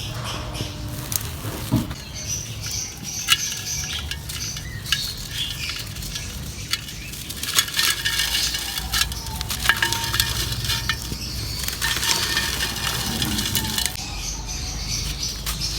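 Dry crumbling in a clay pot: a continuous, irregular run of crisp crackles with small clicks and clinks as hard dry fragments break and fall against the pot.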